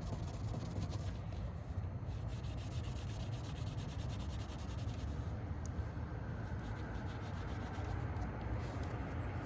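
Cotton pad rubbing WD-40 back and forth over a light scratch on a car's painted bodywork, a steady scrubbing sound.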